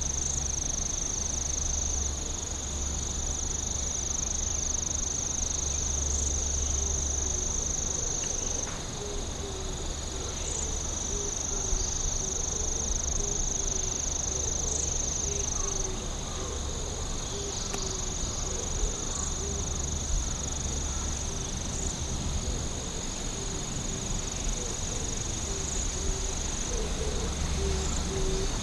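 Chorus of night insects chirring: a steady high-pitched trill that shifts slightly in pitch every few seconds. A lower, evenly repeated note joins about a third of the way in, over a low background rumble.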